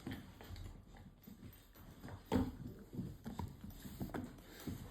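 Rottweilers gnawing on bones: irregular crunching and clicking of teeth on bone, the loudest crunch about halfway through.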